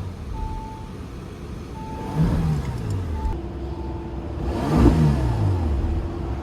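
Bentley Bentayga's 6.0-litre twin-turbo W12 engine, warm, blipped in two quick revs from idle: a short one about two seconds in and a bigger, louder one about three seconds later, each falling back to idle.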